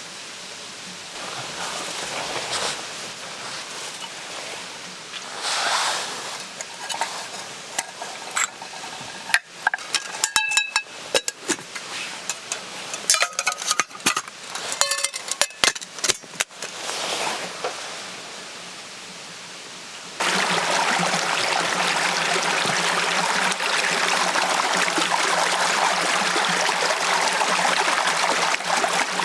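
Scattered light clicks and knocks of handled gear, then, starting abruptly about twenty seconds in, a loud steady rush of running water.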